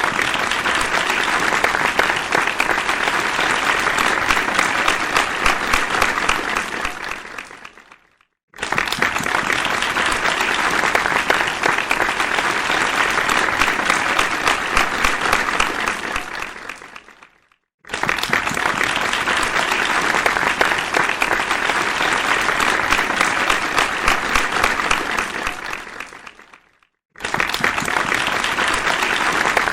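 Crowd applauding, a dense steady clatter of many hands. Three times the applause dies away and stops, and after about half a second of silence it starts again at full strength, so it comes in stretches of about nine seconds.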